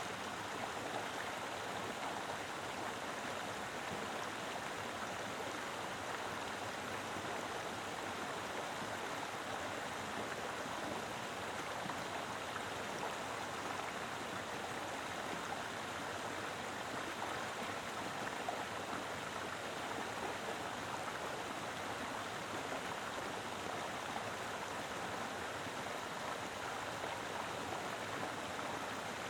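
Mountain river flowing steadily over rocks: a full, even rush of water with no letup.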